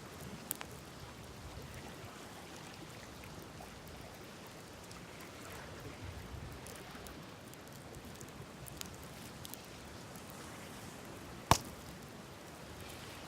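Wood campfire burning with a steady hiss and scattered small crackles, and one sharp loud pop near the end.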